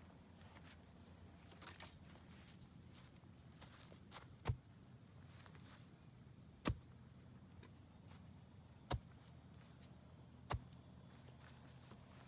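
Quiet outdoor ambience with a handful of sharp, brief ticks a couple of seconds apart and four faint, short, high chirps.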